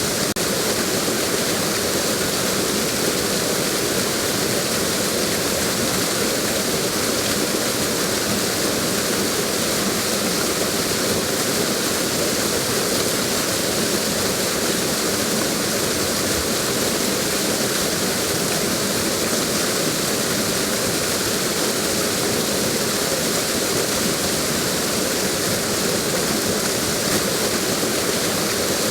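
Waterfall: water crashing and cascading over a drop, a steady, even rush with no change.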